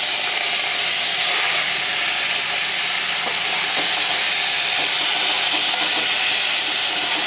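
Salt-and-turmeric-coated prawns frying in hot mustard oil in a kadai, a loud steady sizzle. A metal spatula turning them adds a few light scrapes.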